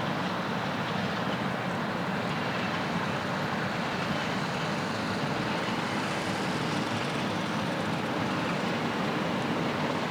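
Heavy farm harvesting machinery running steadily: an even engine and machine noise with a faint steady hum.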